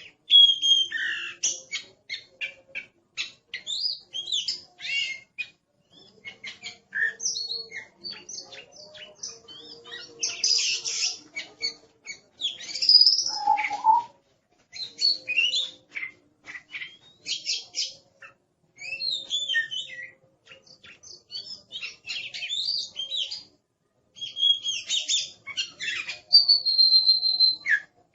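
Oriental magpie-robin singing a fast, varied song of short chirps, whistles and harsher notes, in phrases broken by brief pauses.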